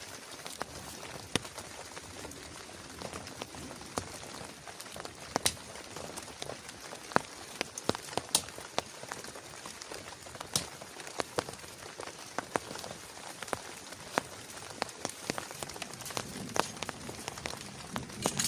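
Steady rain, with individual drops striking close by as sharp, irregular ticks over a constant hiss.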